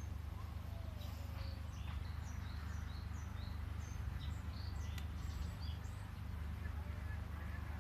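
Small birds chirping in quick short calls over a steady low rumble, with a single sharp click about five seconds in.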